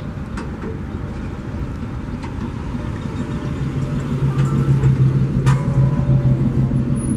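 Freight train cars rolling past: a steady low rumble with a few sharp clicks from the wheels. A steady low hum swells in about halfway through and grows louder.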